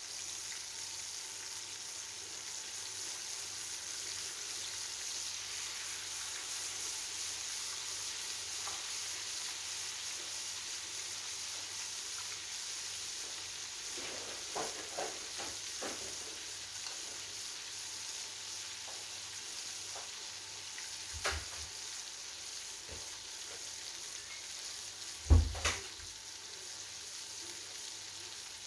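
Flour-coated chicken pieces deep-frying in hot oil, a steady sizzle. A few light knocks fall midway, and one much louder sharp knock comes about three-quarters of the way through.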